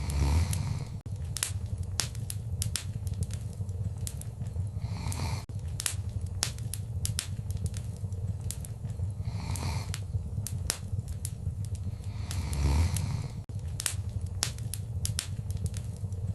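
Wood fire burning in a fireplace, crackling and popping with many sharp snaps over a steady low rumble of the flames, and soft hissing swells every four or five seconds.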